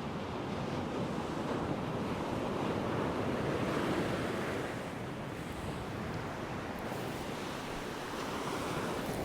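Small waves washing onto a sandy beach in a steady surf wash that swells a little and eases off; the surf has gone flat.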